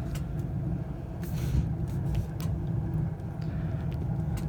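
Home furnace running with the heat on: a steady low hum. A few light clicks and a short hiss come about a second in.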